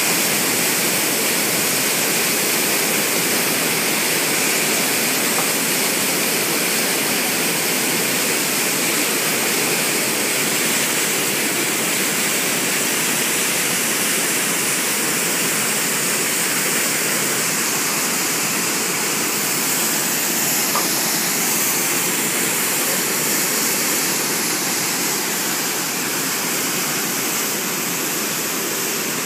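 Water released from a dam in a test discharge, pouring out in a steady, loud rush.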